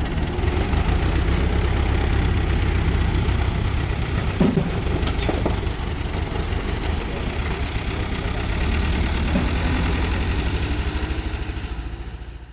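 Diesel engine of a mini excavator or dump truck idling steadily with an even low pulse, with a couple of short knocks about four and a half and five seconds in. It fades out near the end.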